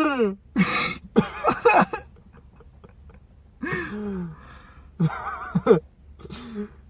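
A person making a run of short nonverbal vocal noises, moans and howls whose pitch slides up and down, imitating Chewbacca's Wookiee howl.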